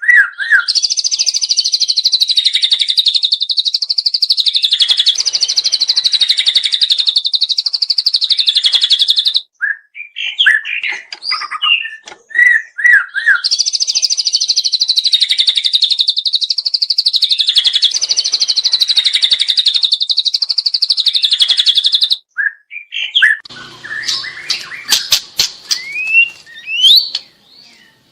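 Juvenile white-rumped shama singing: two long, very fast high trills of about nine seconds each, separated by a few short chirping notes, then scattered short notes and clicks near the end.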